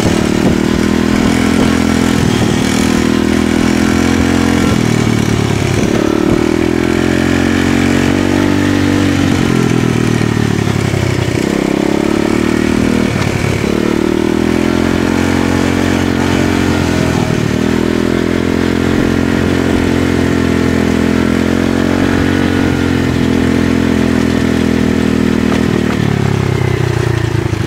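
Small single-cylinder dirt-bike engine (pit bike or mini-motard) being ridden hard: the revs climb and fall again and again, with brief throttle-off dips between pulls, about seven times.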